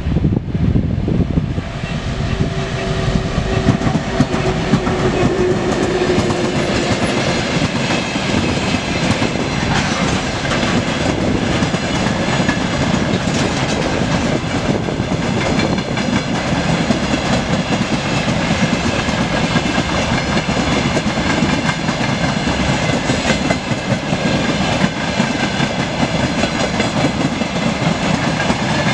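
Broad-gauge freight train of open-top wagons passing close by, its wheels clattering steadily over the rails.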